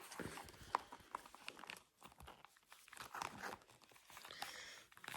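Faint crinkling and rustling of packaging, with scattered small clicks, as binders are unwrapped and handled.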